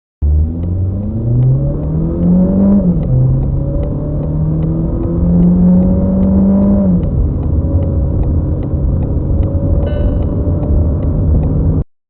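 Skoda Octavia Mk3 engine under full-throttle acceleration: the engine note climbs steeply, drops at an upshift about three seconds in, climbs more slowly through the next gear, and drops again at a second upshift about seven seconds in. A faint regular ticking runs above the engine.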